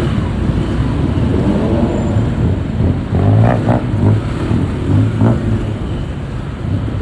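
Motorbike riding in city traffic: its engine running and accelerating under a low, steady rumble of road and traffic noise, with a few short louder sounds between about three and five and a half seconds in.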